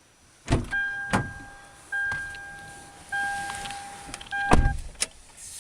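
2010 Toyota Tundra's power rear cab window being run down by its electric motor, with several sharp clicks. A steady electronic beep sounds in roughly one-second pulses over it.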